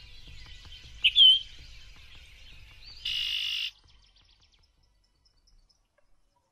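Birds chirping over a low rumble, with one loud chirp about a second in and a short harsh call near the middle; then it drops to near silence.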